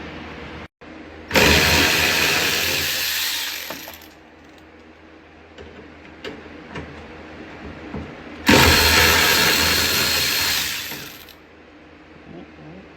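Handheld power driver running in two bursts of about three seconds each, backing out the fasteners that hold the rear hatch struts, with quieter handling sounds between.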